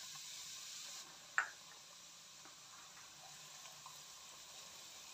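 Semolina frying in hot ghee in a pan: a faint, steady sizzle that drops a little about a second in, with one light knock shortly after.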